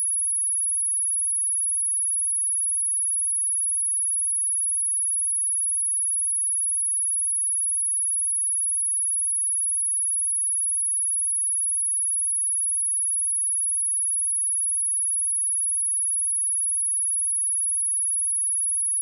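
Steady pure sine tone at 10494 Hz, a single high-pitched whistle-like note held at constant level, played as a speaker test tone.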